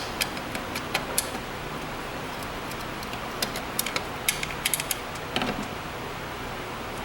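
Scattered light metallic clicks and clinks of hand tools and small metal parts being handled. They come in two clusters, near the start and in the middle, with a short scrape after them, over a steady background hiss.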